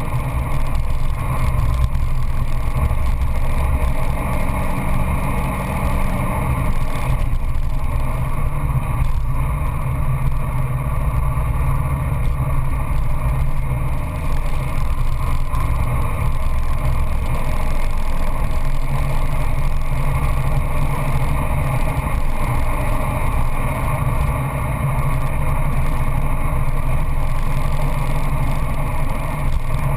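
Peugeot 206 GTI S16's 2.0-litre 16-valve four-cylinder engine running hard at speed, heard from inside the cabin with tyre and wind noise. The note dips briefly a few times.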